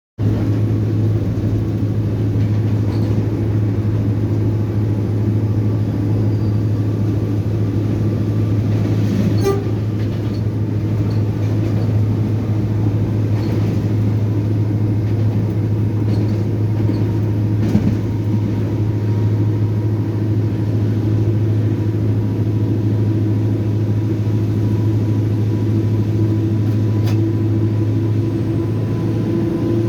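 Diesel-electric locomotive heard from inside its cab while under way: a steady low engine drone with rail noise, and a few sharp knocks.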